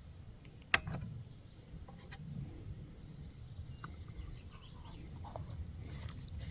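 One sharp click about a second in, then a few fainter clicks and knocks from small gear being handled, over a low wind rumble on the microphone.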